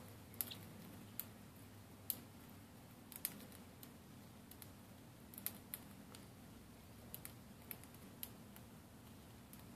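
A parrotlet's faint, irregular small clicks and ticks, about a dozen spread out, from the small bird nibbling a treat and shifting about.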